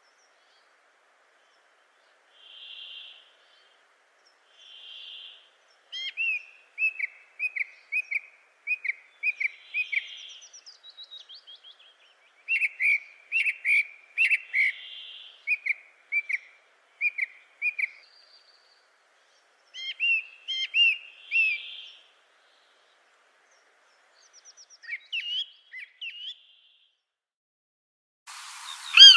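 Birds calling: soft, breathy notes every few seconds, then phrases of short, quick chirps with pauses between. Near the end a hiss comes in with a loud falling call.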